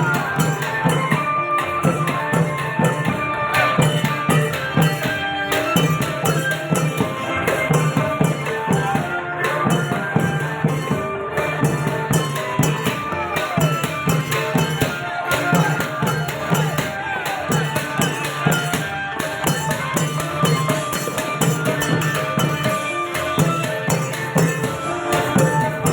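Thai klong yao long-drum ensemble playing folk music: a steady, driving drum beat with jingling cymbals and a melody line carried over it.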